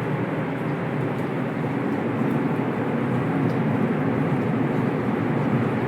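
Steady roar of a large tornado with its rushing wind, swelling slightly about two seconds in.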